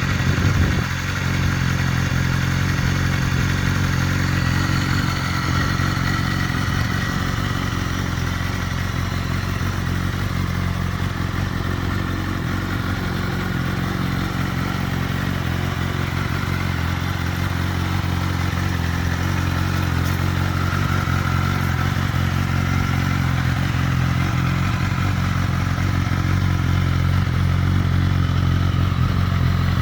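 Motorcycle engine idling steadily, a little louder in the first second.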